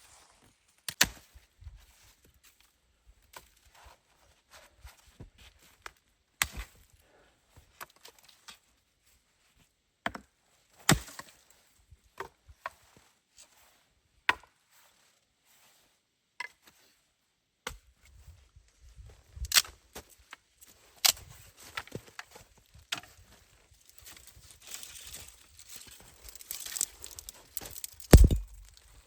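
Wood being chopped: irregular sharp blows a few seconds apart. In the second half they come more often, with crunching and rustling between them, and the loudest blow falls near the end.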